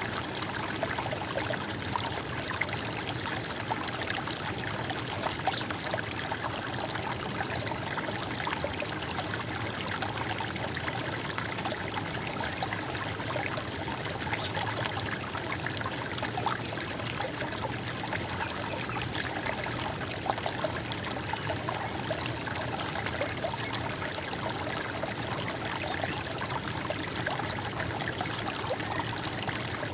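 Running water of a stream, trickling steadily.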